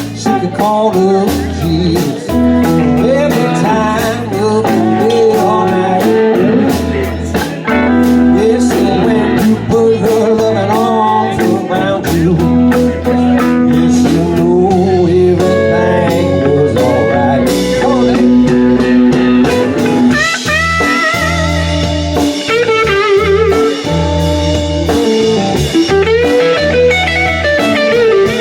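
Blues band playing: an electric guitar takes a wavering, bending lead over bass and a drum kit, with the lead getting busier and higher about two-thirds of the way through.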